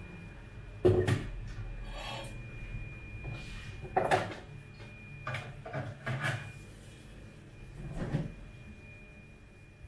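A few scattered knocks, clunks and rubbing sounds of things being handled at home, the loudest about a second in and about four seconds in, over a faint steady high whine.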